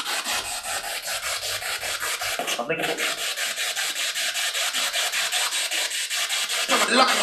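Spirit box sweeping radio stations, producing choppy static pulses about eight times a second. Near the end a very quick fragment of a voice comes through the sweep.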